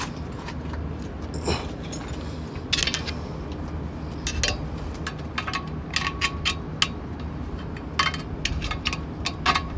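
Metal clinks and scrapes of hand tools, such as a flathead screwdriver, prying at stuck clutch parts, in scattered clusters of short sharp taps over a steady low hum.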